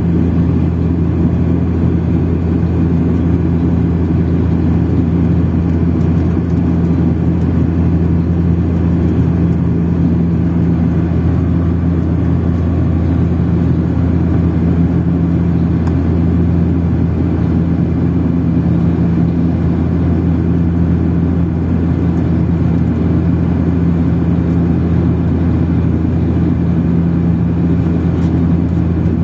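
Steady drone of an airliner's cabin in flight: engine and airflow noise with a strong low hum, unchanging throughout.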